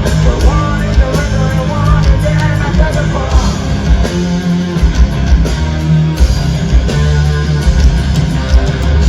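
Loud heavy rock music with singing over guitars and a steady beat; the singing is clearest in the first few seconds.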